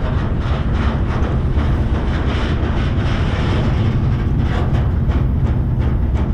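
Freight train rolling along as heard from aboard a car: a steady heavy low rumble of wheels on rail, with a constant run of rattles and clanks from the car.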